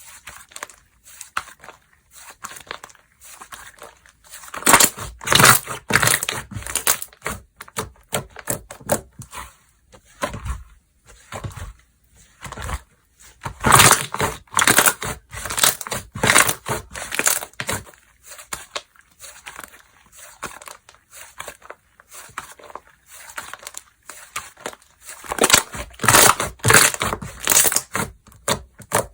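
Slime being squeezed, stretched and pressed by hand close to the microphone, giving dense crackling, clicking and popping in three louder bursts with softer clicking between.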